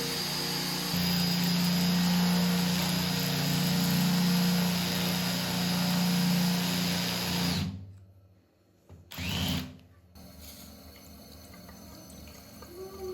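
Electric drill running steadily for about eight seconds, then stopping, followed by a short burst of another sound.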